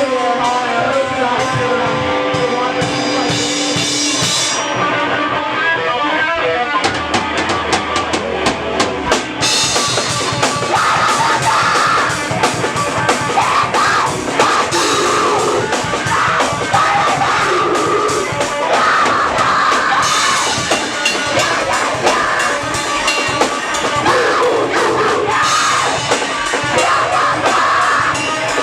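Live band playing loud: guitar notes alone at first, then the drum kit comes in about seven seconds in and the full band plays on.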